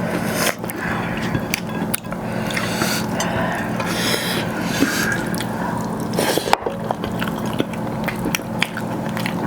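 Close-up wet eating sounds of rice and chicken gravy: moist squelches, scrapes and soft clicks as the food is mixed and chewed, over a low steady hum.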